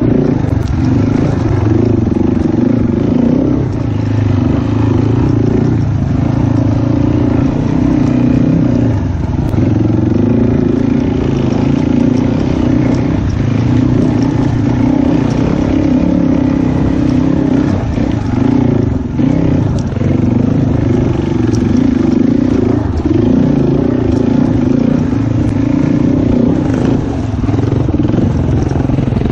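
Dirt bike engine running under load while riding, its pitch rising and falling with the throttle and gear changes, over the rush of wind and rattle of the ride.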